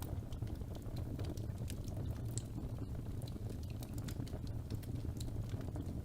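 Fire burning in a fireplace: a steady low rumble of the flames with frequent small irregular crackles and pops.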